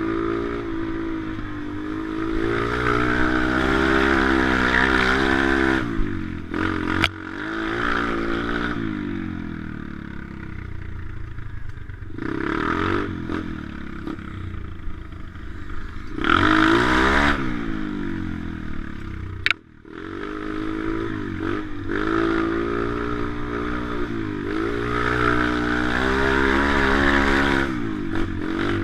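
Pit bike engine being ridden hard, its pitch rising and falling over and over with throttle and gear changes. Two sharp clicks cut in, the second followed by a brief sudden drop in engine sound about two-thirds of the way through.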